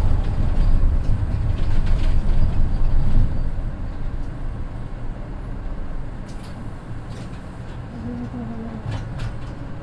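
Mitsubishi Fuso Aero Midi bus's naturally aspirated 6M61 inline-six diesel heard from inside the cabin, running loud under power for about three and a half seconds. The sound then drops away to a quieter run as the throttle comes off, with a few light clicks and rattles.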